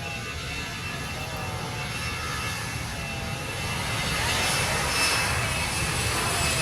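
Jet airliner's engines running with a steady roar and a thin high whine, growing louder about four seconds in: the aircraft taking off.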